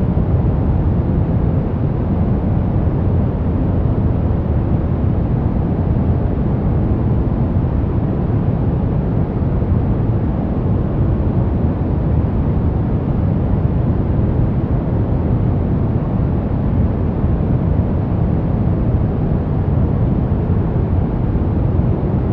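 Continuous synthetic noise played as a sleep and relaxation track, steady and unchanging. Its energy sits mostly in the low end, so it sounds like a deep, even rush rather than a bright hiss.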